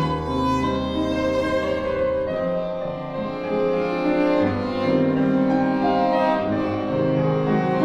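Violin, cello and piano playing classical chamber music, with long held bowed notes over low bass notes.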